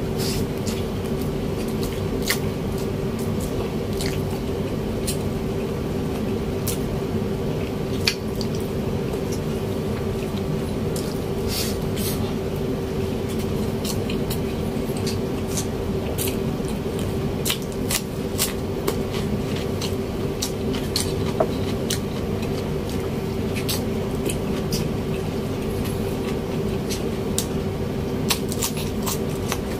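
Close-miked chewing and mouth sounds of a person eating braised pork belly and rice by hand: wet smacks and sharp clicks scattered irregularly throughout. A steady low hum runs underneath.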